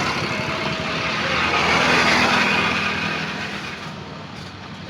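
A motor vehicle passing close by: the engine and road noise swell to a peak about two seconds in, then fade away.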